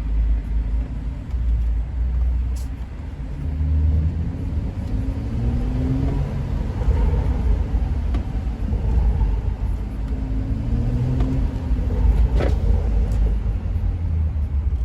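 BMW 335i's turbocharged straight-six with an aftermarket downpipe running under a steady low rumble while the car is driven. The engine note rises twice, about four seconds in and again about ten seconds in, as it pulls. A single sharp click comes near the end.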